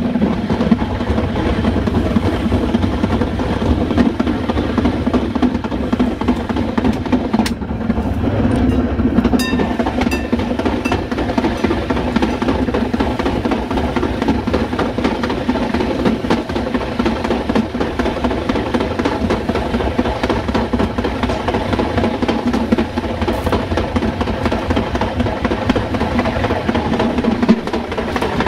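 Metre-gauge electric train of the Ferrovia Mesolcinese running at speed, a steady rumble of wheels on rail heard from the rear cab. A brief row of faint high ticks comes about ten seconds in.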